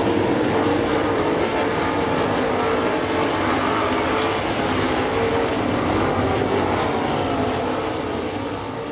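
Winged sprint cars racing, their V8 engines running hard together in a steady, wavering drone that begins to fade near the end.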